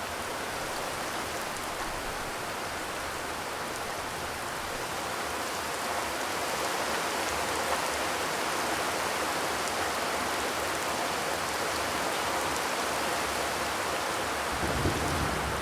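Steady rain pattering on a zinc roof, growing a little heavier about six seconds in. A low rumble starts near the end.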